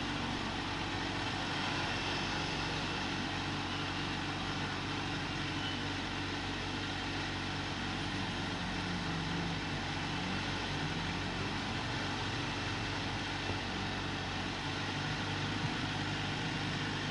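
Motorcycle engine running steadily in traffic, its pitch rising and falling slightly about halfway through, with road noise; the sound cuts off suddenly at the end.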